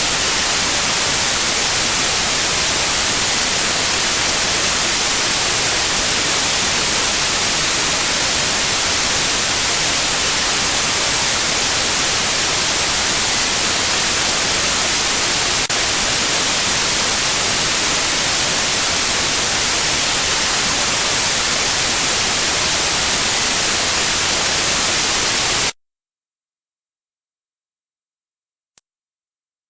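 Synthetic white noise with a steady, high-pitched pure tone at 9645 Hz laid over it, a tinnitus-masking signal. About 26 s in, the noise cuts off suddenly and the tone continues alone.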